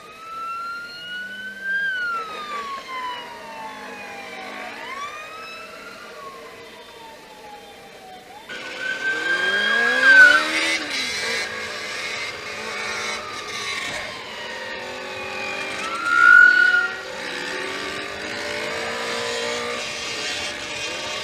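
Police siren wailing in slow rising and falling sweeps. About eight seconds in, motorcycle engines revving join in, louder, with the siren still sweeping above them.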